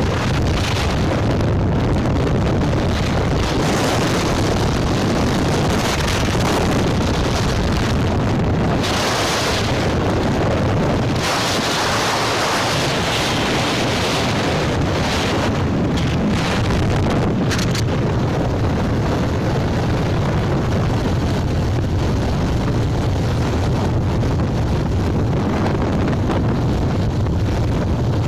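Wind buffeting the microphone of a moving motorcycle, a loud steady rush with the engine and road noise underneath.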